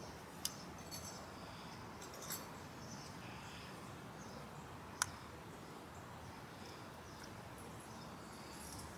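A few sharp light clicks, as of small carburetor parts and hand tools being handled and set down, over a faint steady hiss; the sharpest click comes about five seconds in.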